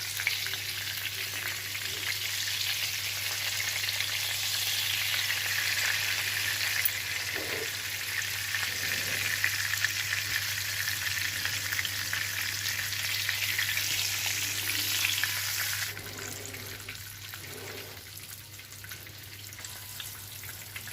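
Flour-and-egg-coated whiting fillets sizzling as they shallow-fry in hot oil, a dense steady crackle that drops suddenly to a quieter sizzle about 16 seconds in.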